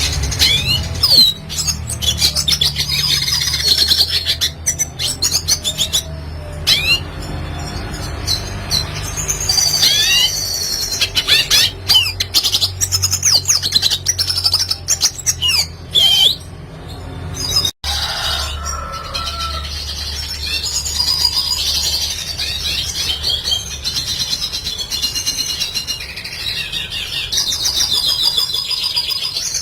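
Red siskin singing: a continuous fast twittering song of rapid chirps, trills and sweeping high notes, over a steady low hum. The sound cuts out for an instant a little past halfway.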